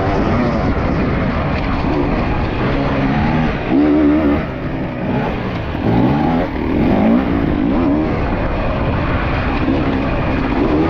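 Enduro dirt bike engine revving hard and easing off over and over, its pitch swooping up and down as it is ridden through deep mud, over a steady rushing noise.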